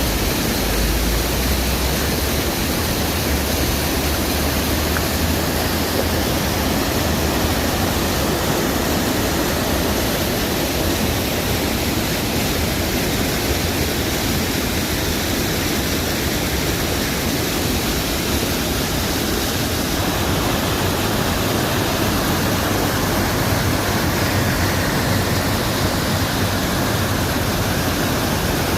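Rushing water: the steady, loud, even rush of a stream or waterfall.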